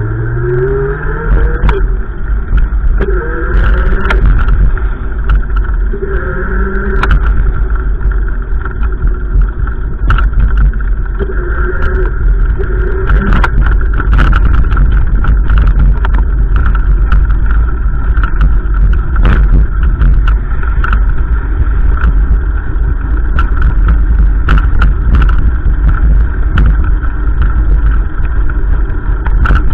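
A motor vehicle's engine rising in pitch as it accelerates over the first couple of seconds, then a loud, steady low rumble with scattered short clicks.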